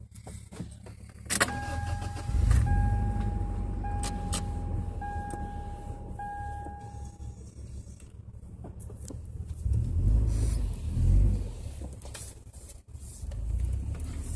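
An off-road vehicle's cabin warning chime beeps steadily about five times over several seconds while the engine runs underneath. About ten seconds in the engine revs up twice as the vehicle pulls away.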